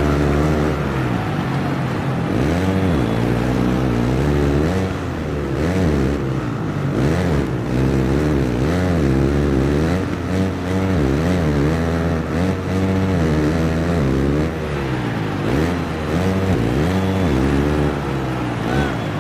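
Motocross bike engine revving hard and dropping back again and again, its pitch rising and falling roughly once a second as the throttle is opened and closed and the gears change.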